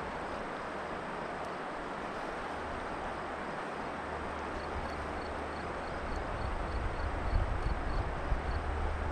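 Steady rush of outdoor river noise on an open microphone, with wind buffeting the microphone, gusty and louder from about six seconds in. A faint regular ticking, about three to four ticks a second, runs through the middle.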